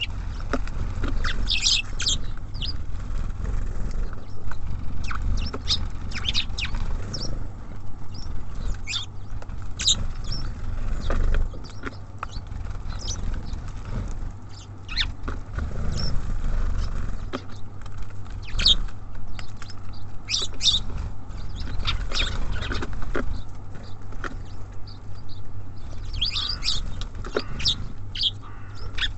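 Small birds at a feeder making short, high chirps and calls scattered irregularly, with brief clicks and wing flutters, over a steady low rumble.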